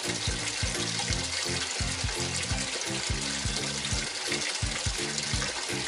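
Water running steadily into a washing machine, its supply not shutting off, under background music with a steady rhythm.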